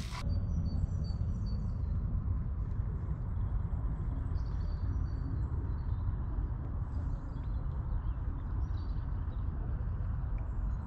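Outdoor ambience: a steady low rumble, with faint high bird chirps now and then.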